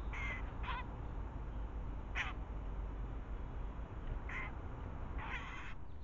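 Five short, harsh, crow-like bird calls, a second or two apart, the last one longer, over a steady low rumble.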